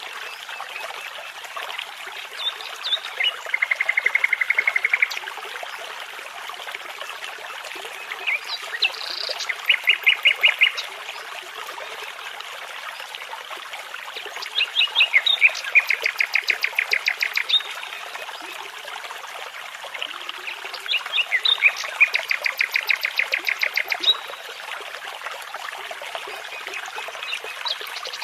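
A nightingale sings four separate phrases, each a few sharp high notes followed by a fast run of repeated notes lasting one to three seconds. Under the song, a brook babbles with a steady rushing hiss.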